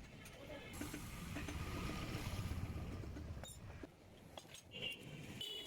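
Low rumble of motor traffic, with a few light clicks.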